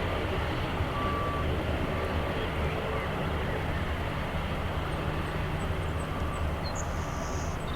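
Steady low rumble and hiss of aircraft engines running at the airport, with a few faint short beeps.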